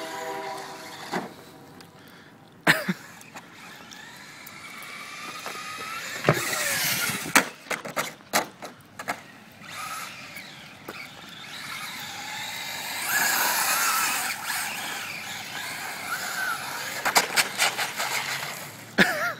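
Traxxas 1/10-scale rally RC car driving on wet ground: its electric motor whines, rising and falling in pitch as it speeds up and slows, over a hiss of tyres and spray. Several sharp knocks from landings or crashes come in clusters, about six to nine seconds in and again near the end.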